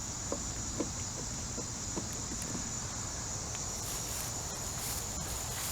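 Crickets chirring steadily in a constant high-pitched drone, with a few faint soft clicks about every half second in the first couple of seconds.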